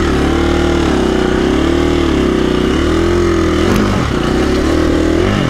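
KTM 350 EXC-F's single-cylinder four-stroke engine revving up and down in uneven surges, the throttle worked on and off while the dirt bike is coaxed up a steep, rocky hillclimb.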